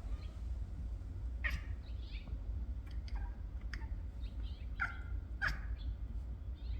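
A series of about six short, sharp chirps sliding downward in pitch, spaced unevenly over several seconds, over a low steady rumble.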